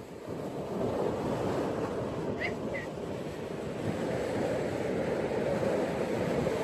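Ocean surf washing onto a beach: a steady rush of wave noise that swells louder after the first second. Two brief high chirps sound about two and a half seconds in.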